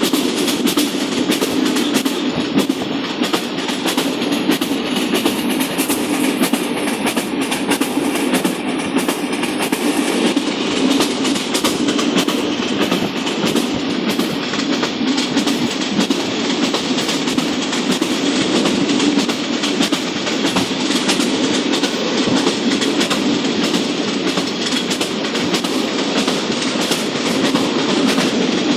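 Rangpur Express passenger train running on the track, its wheels clattering over the rails with many clicks over a steady, loud rumble.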